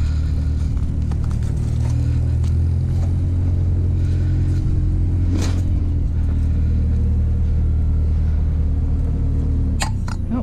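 A motor vehicle engine idling with a steady low rumble. A few short light knocks or clicks sound over it, about a third, halfway and near the end.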